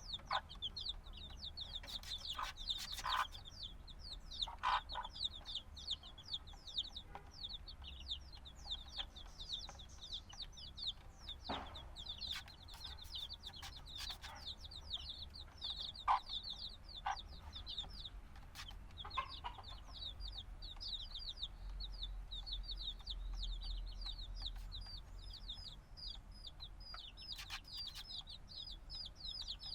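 A brood of newly hatched chicks peeping continuously: many rapid, high, short chirps that overlap, with occasional small taps and scratches. The chicks are only a few days old and calling for the warmth of the mother hen.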